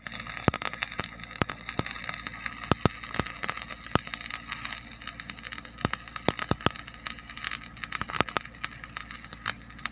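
Arc welding on a steel backhoe bucket: a steady hiss broken by irregular, sharp crackles and pops.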